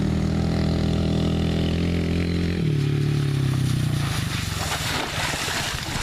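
Yamaha TTR-110 pit bike's single-cylinder four-stroke engine running at a steady pitch while towing, dropping in pitch about two and a half seconds in and fading out, followed by a rushing hiss.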